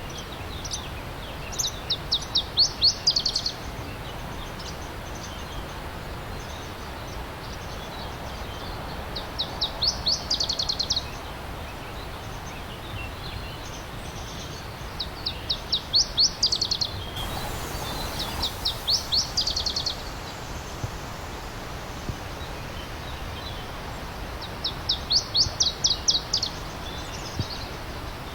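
A songbird repeats a short song of rapid, high, downward-slurred notes, five times at intervals of several seconds, over the steady rush of a stream.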